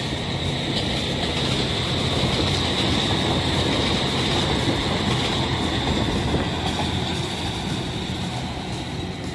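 A JR Shikoku 2000 series diesel railcar train running past on a curve. It is loudest a few seconds in and fades as it moves away, with a steady high-pitched whine over the rumble.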